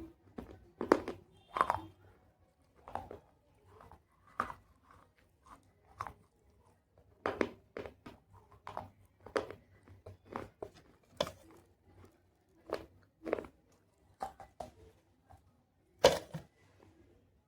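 Pieces of baked clay pot being bitten and chewed close to the microphone: a run of irregular, sharp crunches, with the loudest one near the end.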